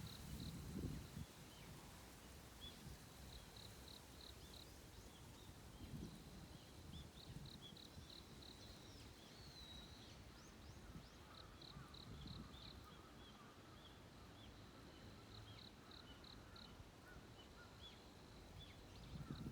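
Faint dawn birdsong. One bird repeats a quick phrase of four or five identical high notes about every four seconds, with other scattered faint chirps and a brief lower twitter in the middle, over a thin, steady high-pitched tone.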